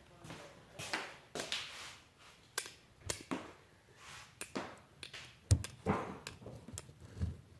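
Irregular knocks, clicks and shuffling noises from people moving about and handling things in a small room.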